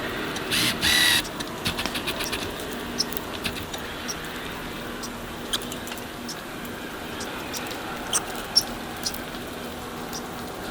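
Scattered sharp clicks and scratches, like a squirrel working at a bird feeder. About half a second in, two short, loud pitched calls sound back to back.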